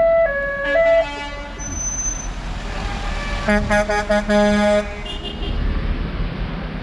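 Vehicle horns sounding over a steady low engine and traffic rumble: first a two-tone horn alternating between two notes, then, about three and a half seconds in, a deeper horn giving a quick series of short toots.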